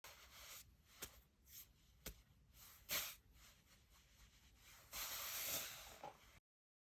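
Scattered sharp clicks and hissing rustles: the loudest click comes about three seconds in, and a longer hiss about five seconds in. The sound cuts off suddenly near the end.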